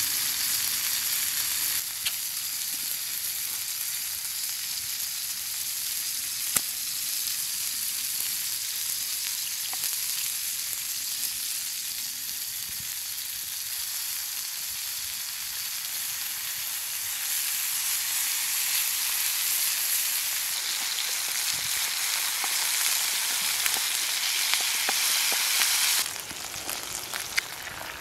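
Sausage and laverbread frying in a pan over a small wood-burning stove: a steady sizzle with a few sharp clicks. The sizzle drops off suddenly near the end.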